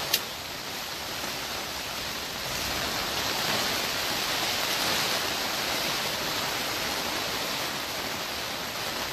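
Steady rain pattering on the plastic cover of a hoop greenhouse, swelling a little in the middle. A single click right at the start.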